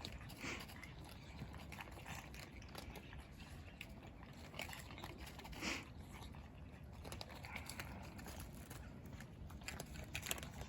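Cats eating, with irregular small crunching and chewing clicks; a louder crunch comes about half a second in and again near the middle.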